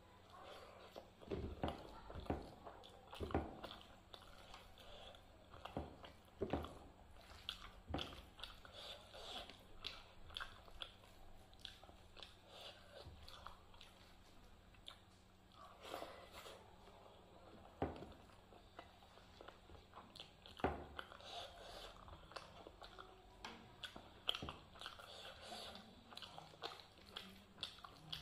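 Close-miked chewing of a mouthful of rice and masala dal eaten by hand, with irregular wet mouth clicks and smacks. Fingers mix more rice and dal on the plate between mouthfuls.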